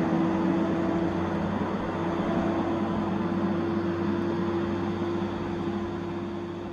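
Tigercat 870C feller buncher running: a steady machine drone with a steady pitched whine over it, easing off slightly near the end.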